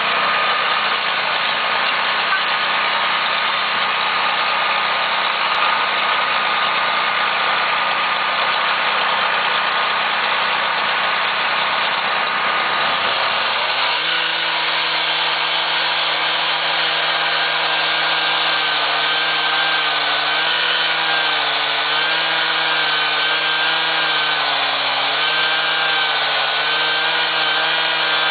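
Steady, loud noise of railway track-work machinery. About halfway through, a small engine comes up to speed and keeps running with a slightly wavering pitch.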